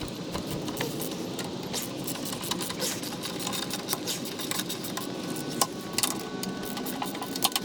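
Ratchet wrench turning out the steering rack's mounting bolts: a steady, rapid clicking rattle with sharper knocks now and then. The bolts come out easily, none of them tight.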